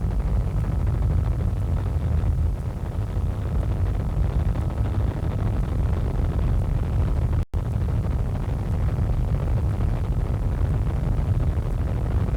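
Helicopter cabin noise: a steady low rumble, cut by a split-second dropout a little past the middle.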